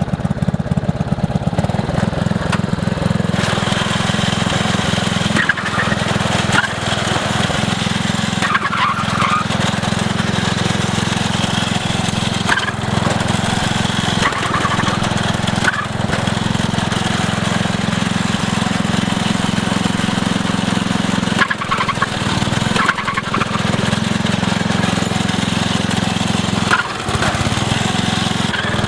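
MTD lawn tractor's small engine running hard and steady while the tractor is driven through burnouts, with a few brief dips in its sound, one near the end.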